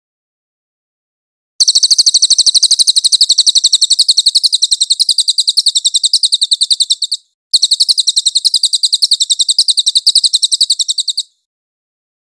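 Crested jay (cililin) giving its very high-pitched, rapid rattling call of fast, evenly repeated chips. It starts about a second and a half in as one long train, breaks briefly past the halfway mark, and runs on in a second long train.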